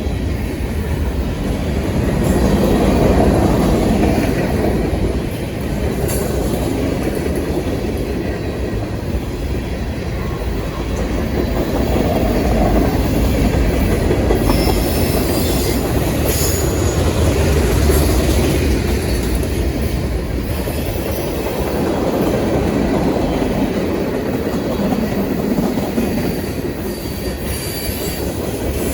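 Freight cars of a long mixed manifest train rolling past on a grade: a steady rumble of steel wheels on rail that swells and eases, with occasional sharp clicks.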